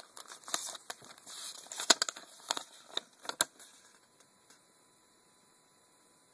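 Paper rustling and crinkling, with sharp irregular crackles and snaps, as a folded note is handled and unfolded; it stops about four seconds in.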